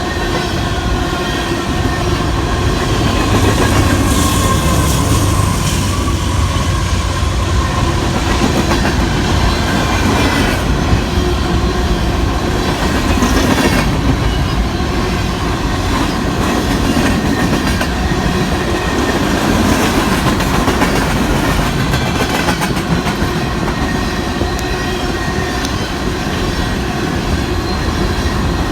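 Long Union Pacific coal train rolling past: loaded freight cars rumble steadily, with wheels clacking over rail joints and thin steady wheel squeal running through.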